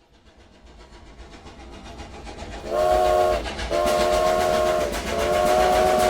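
Steam train chugging in a fast, even rhythm that fades in and grows louder, then its chime whistle sounding a chord of several tones three times, two short blasts and a long third.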